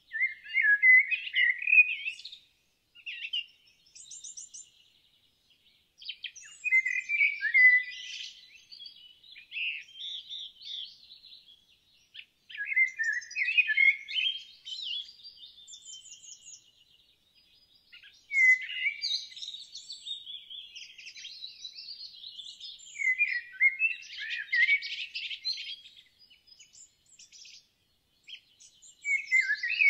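Songbirds singing fast, chirping and warbling phrases, a new burst of song every five or six seconds with short quiet gaps between.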